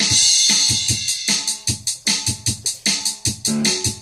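Drum machine playing a steady repeating beat of kick and snare hits, opening with a cymbal crash.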